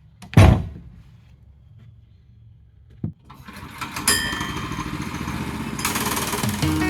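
Portable sawmill's gas engine idling low, with a heavy wooden knock about half a second in and another near three seconds, then the engine throttles up and runs loud and steady.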